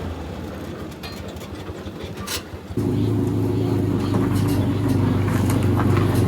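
Small vehicle engine running, low and pulsing at first, then stepping up suddenly to a louder, steady higher-revving note about three seconds in.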